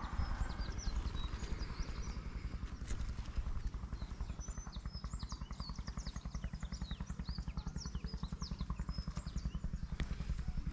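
Small birds chirping in quick short calls, over a low, steady, rapidly pulsing throb.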